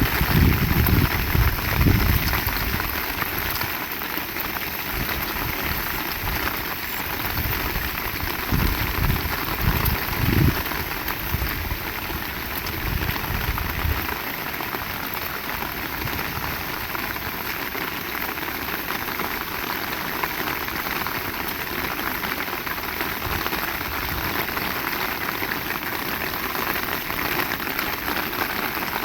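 Heavy rain pouring steadily. Gusts of wind rumble low through the first half and die away about halfway through.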